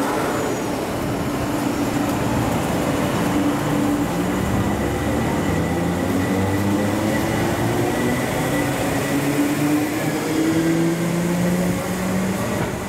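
MTR East Rail Line electric train moving along a station platform, its traction motors whining in several steady tones that slowly shift in pitch over the rumble of the wheels.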